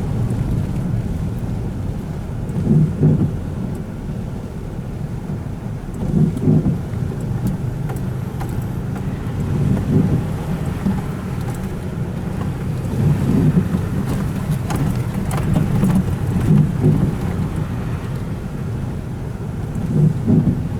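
Low steady rumble of a vehicle moving, heard from inside the cabin, swelling louder every few seconds.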